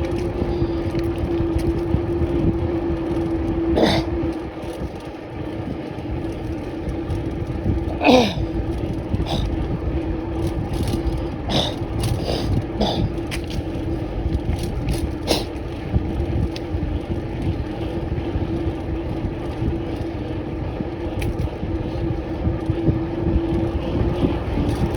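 Bicycle riding along a road, heard from a phone mounted on the bike: steady wind and road rumble under a constant hum, with a few sharp knocks and rattles from bumps, about four seconds in, at eight seconds, and several between eleven and fifteen seconds.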